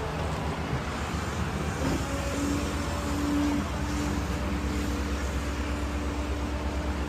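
Small rear-loader garbage truck's engine running steadily, with a low rumble; about two seconds in a steady whine joins it and holds.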